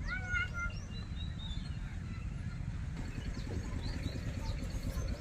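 Birds chirping and calling: one clear rising call right at the start, then short high chirps scattered throughout, over a steady low rumble.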